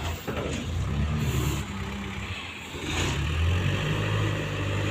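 Heavy-vehicle engine running steadily, growing louder and deeper about three seconds in as it takes on more throttle, with a few faint knocks.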